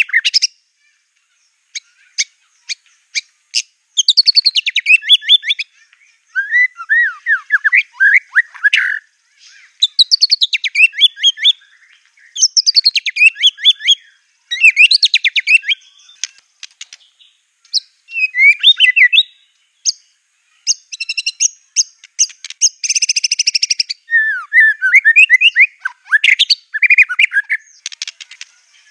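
White-rumped shama (murai batu) singing: a long run of fast, varied chirping and trilled phrases broken by short pauses, with a buzzy rattling passage a little after the middle.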